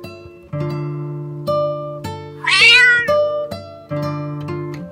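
Plucked-string background music with a light, steady run of notes, and one cat's meow about halfway through that rises and then falls in pitch.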